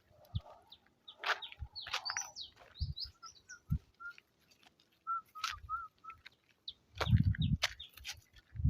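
Birds calling: a quick burst of high chirps, then a run of short repeated notes. Near the end comes a louder low rumble.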